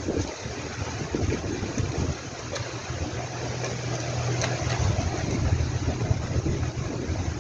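Steady rumbling, rushing noise like wind on the microphone, with a low engine hum holding steady for about two seconds midway.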